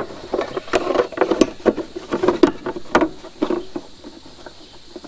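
Irregular clicking, tapping and rattling of engine parts being handled and fitted by hand: an air filter housing cover being put back on, thinning to a few faint ticks near the end.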